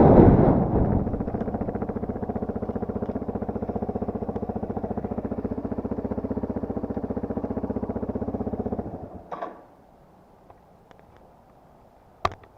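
Yamaha TT250R's single-cylinder four-stroke engine dropping off the throttle to a steady, evenly pulsing idle, then switched off about nine seconds in. A short rattle follows the shut-off, and there is a sharp click near the end.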